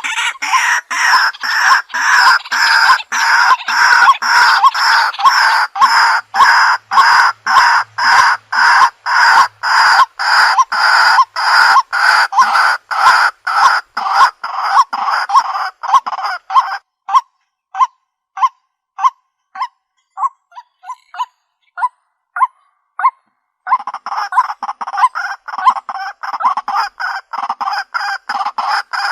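White-breasted waterhen calling: a loud series of harsh notes repeated about two to three times a second. Past the middle the notes grow thinner and more spaced, then after a short pause the full calling resumes.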